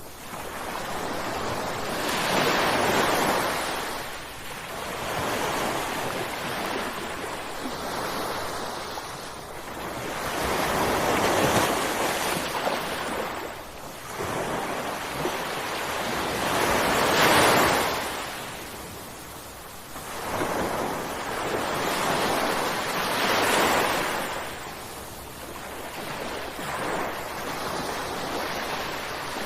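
Ocean waves breaking on a shore. Each is a rushing swell of surf that builds and dies away every few seconds, with four bigger crashes among smaller ones.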